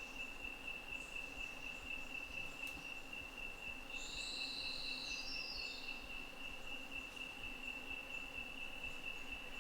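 A steady, high-pitched insect call holding one pitch without a break. About four seconds in, a bird gives a short call of stepped notes falling in pitch.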